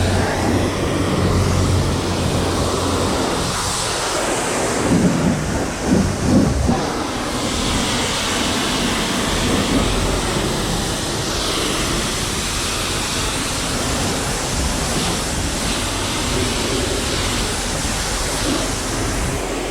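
Pressure-washer wand spraying water onto a car, a loud steady rushing hiss that changes in tone as the spray moves across the panels, with a low pump hum beneath and a louder patch about five to seven seconds in.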